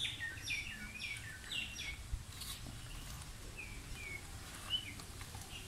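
Small birds chirping: short, falling chirps in quick succession over the first two seconds, then a few scattered ones. A couple of faint clicks sound a little past the middle.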